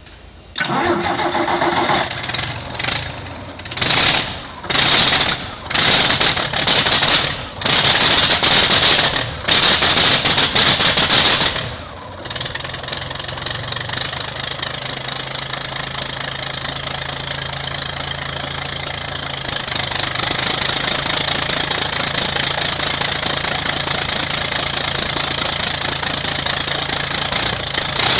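Scania 9-litre ethanol bus engine, run with no exhaust manifold, intake or turbo, cranked on the starter and catching, then blipped in a string of loud surges for about ten seconds before it settles to a steady run. The open exhaust ports make it very loud.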